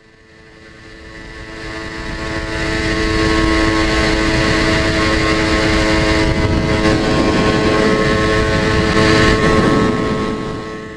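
Yamaha TZR250 3MA two-stroke twin engine running steadily at one engine speed, fitted with home-made expansion chambers. The sound fades in over the first few seconds and fades out near the end.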